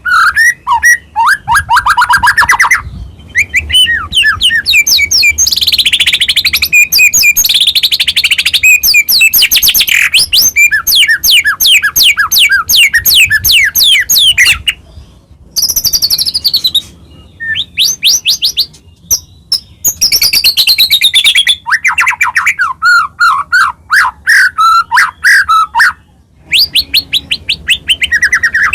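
White-rumped shama singing loud, fast, varied song phrases of rapid trills and sweeping whistles, with several short pauses between phrases.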